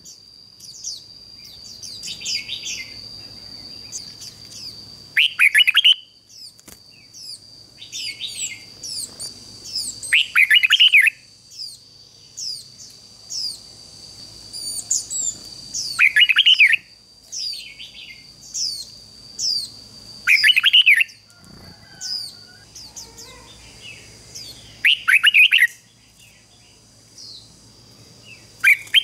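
Red-whiskered bulbul singing loud, short warbled song phrases every few seconds, as a decoy calling to wild bulbuls. Many fainter high chirps from other small birds fill the gaps, over a steady high-pitched whine.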